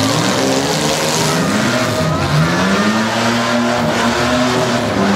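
Several demolition derby cars' engines revving, rising and falling in pitch over one another, one climbing and holding steady about halfway through.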